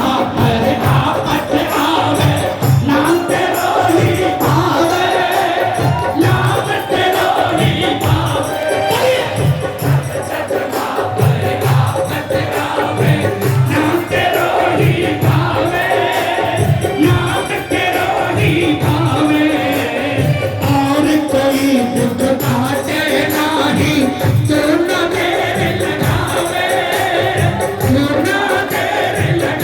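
Live Hindi bhajan (devotional song): singing with many voices joining in, over a steady drum beat and tambourine jingles.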